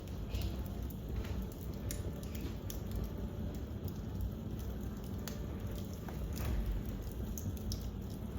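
Fire crackling in a fireplace: irregular sharp snaps and pops over a steady low rumble.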